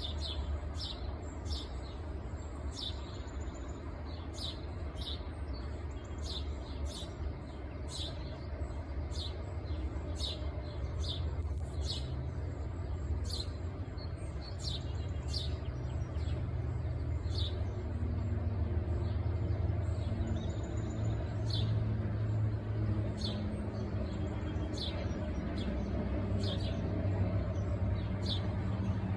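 A bird chirping repeatedly, short high chirps about once or twice a second, over a steady low rumble that grows a little louder in the second half.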